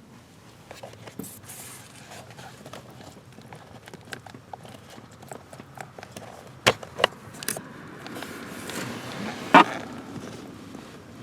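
Scattered light clicks and taps of hand work, with two sharp clicks a little past halfway and a louder click near the end.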